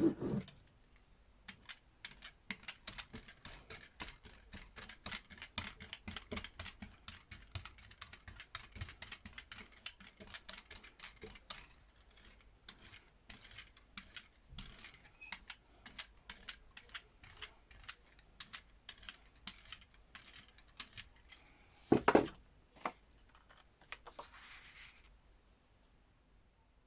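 Brayer rolling tacky acrylic paint across a gel printing plate, a long run of quick, irregular sticky clicks and crackles. A single loud knock about 22 seconds in, followed by a brief rubbing sound.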